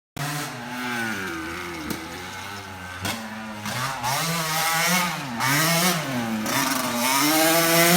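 Small off-road vehicle engine being revved, its pitch climbing and dropping again and again, about once a second in the second half. The sound cuts in abruptly.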